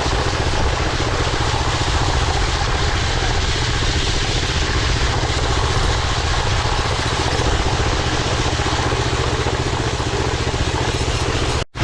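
Walk-behind power trowel's gasoline engine running steadily while troweling a concrete slab. The sound cuts out for a moment near the end.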